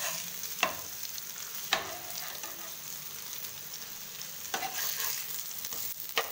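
Alu vadi (colocasia-leaf rolls) shallow-frying in a little oil in a frying pan: a steady sizzle. A spatula clicks and scrapes against the pan a few times as the pieces are turned over.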